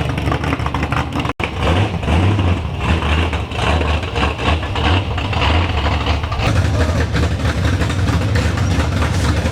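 Car engines idling and running with a steady deep rumble, a brief cut about a second in.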